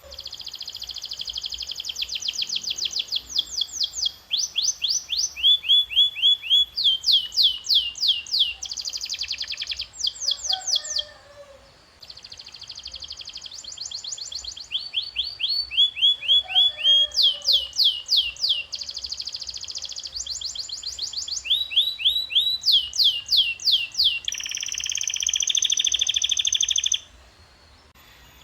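Domestic canary singing: phrase after phrase of quickly repeated identical notes, pausing briefly about eleven seconds in. Near the end comes a buzzier, held trill before the song stops.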